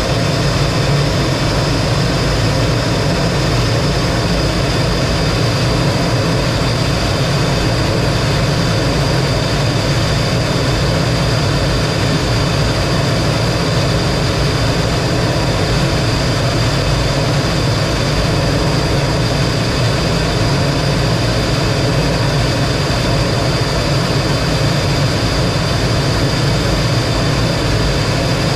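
T-33 jet trainer's single turbojet engine running steadily, a constant loud noise with a steady high-pitched whine riding on top.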